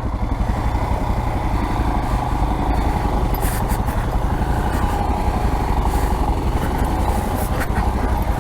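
Single-cylinder dual-sport motorcycle engine running steadily, its firing pulses even throughout.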